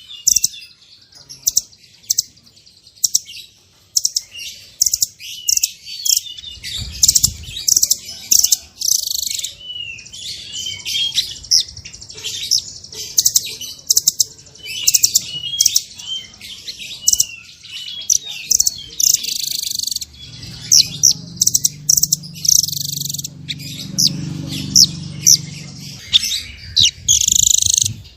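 Blue nuthatch calling: a long run of sharp, high chips and short curved notes, coming in quick flurries, with a low hum in the background during the later part.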